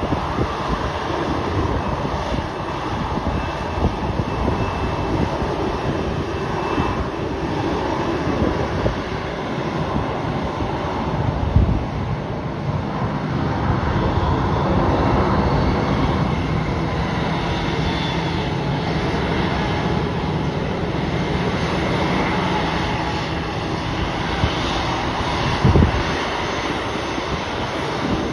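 Jet airliner's engines running as it moves past on or near the runway: a steady rush with faint tones that slowly bend in pitch.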